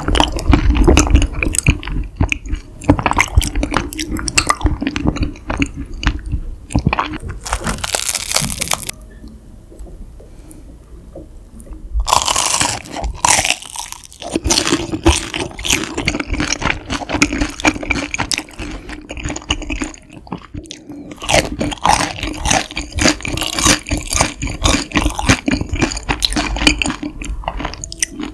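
Close-miked chewing of raw honeycomb: the wax cells crackle and squish between the teeth, with wet, sticky mouth sounds. There is a short quieter pause about nine seconds in, and the chewing picks up again about three seconds later.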